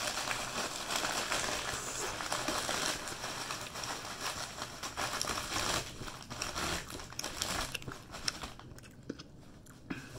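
Close-up chewing and biting of a cheesy leftover pizza slice: a dense run of small wet mouth clicks and smacks, which eases off in the last couple of seconds.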